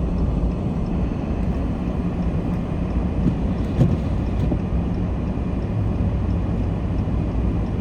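Steady engine and road rumble of a vehicle being driven, heard from inside the cab.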